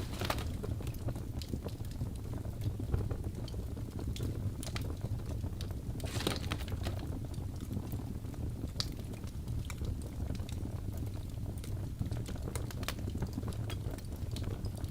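Logs burning in a fireplace, crackling and popping irregularly over a steady low rumble of the flames. There is a brief louder hiss just after the start and another about six seconds in.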